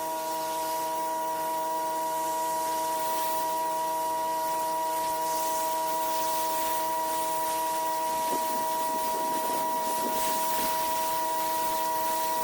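Pressure washer running at a constant speed: a steady whine with spray hiss on top. It cuts off abruptly at the end.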